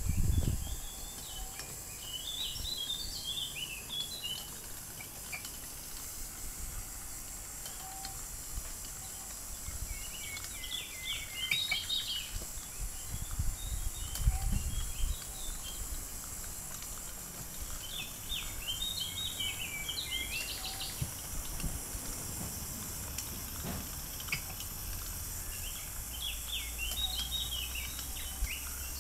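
A songbird singing in short, quick warbled phrases every few seconds, over a low outdoor rumble.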